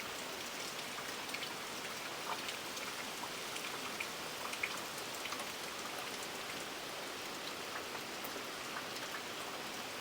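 Steady rain falling, an even hiss with many small scattered drip and patter ticks of drops striking surfaces.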